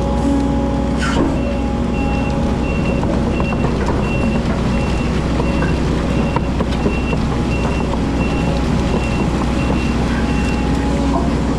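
Hydraulic excavator engine running steadily, with a warning alarm beeping evenly about three times every two seconds. There is a single sharp clank about a second in.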